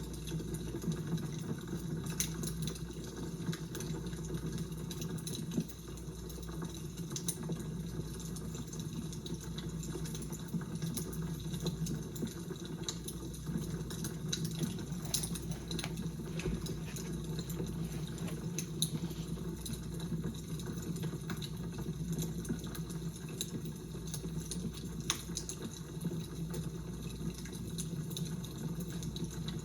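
Fire crackling steadily, with irregular sharp pops and snaps over a constant low rumble.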